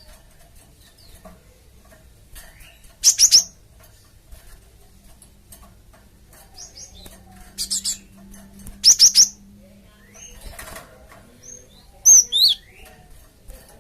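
Cinereous tit (gelatik batu) calling: bursts of sharp, high-pitched chirps in quick runs of three or four notes, the loudest coming a few seconds in, twice in the middle and once near the end, with fainter chirps between.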